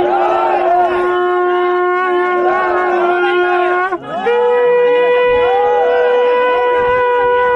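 Conch shells blown in long, steady blasts: one held note, a brief break about four seconds in, then a second held note at a higher pitch.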